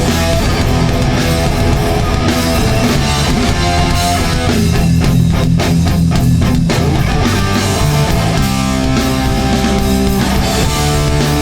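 Hardcore punk band playing live: loud distorted electric guitars, bass and drums. Near the middle comes a stretch of clipped, evenly spaced hits, about four a second.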